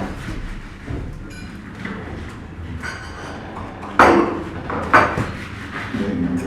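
Breakfast-room clatter: crockery and cutlery clinking, with two sharp knocks about a second apart a little past halfway, over a low murmur of conversation.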